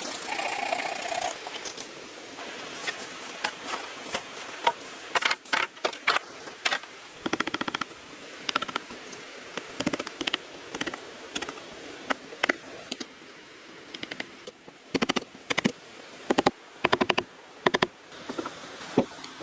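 Construction work on bamboo: runs of sharp clicks and knocks, some in quick even bursts and others single, with short pauses between.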